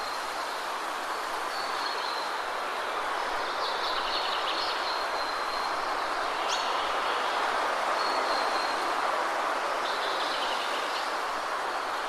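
Waterfall rushing steadily, with birds chirping over it: high thin whistled notes and short trills every few seconds, and one quick upward whistle about halfway through.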